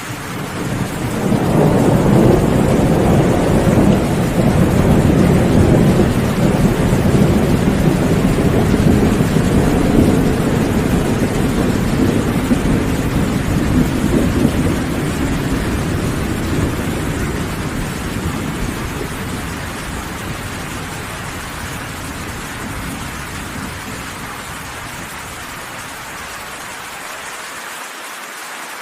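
A long, low roll of thunder over steady rain: it swells about a second in, rumbles for over ten seconds, then slowly fades, leaving the rain alone.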